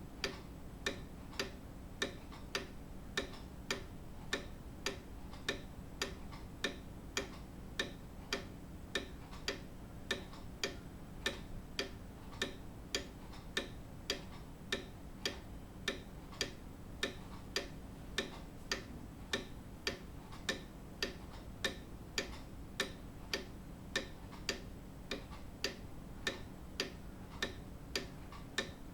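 Grandfather clock ticking steadily, about three ticks every two seconds.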